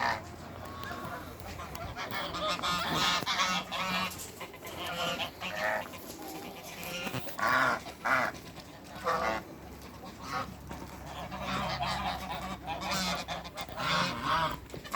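Geese honking over and over, several calling at once, with a few louder honks in the middle.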